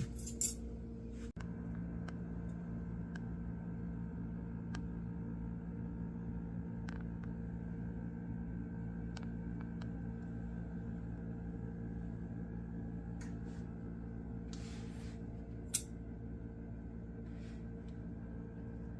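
A steady low mechanical hum with a few fixed tones, broken by scattered light clicks and two brief sharp clinks, one at the very start and one near the end.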